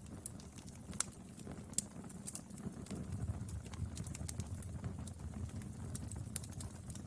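Wood fire burning, with a steady low rumble and frequent sharp crackles and pops at irregular intervals; the loudest pops come about a second in, near two seconds, and near the end.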